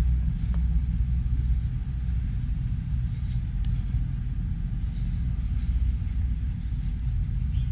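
A steady low rumble with no distinct separate events.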